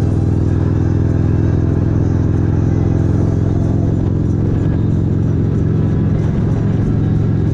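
Motorcycle engine running at a steady cruising speed, a constant low drone.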